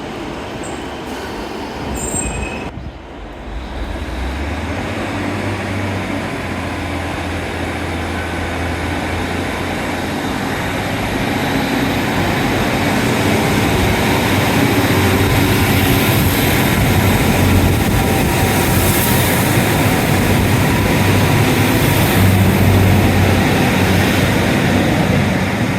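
Diesel passenger train running through the station, its engine drone and wheel noise growing louder through the second half, with faint high-pitched wheel squeal.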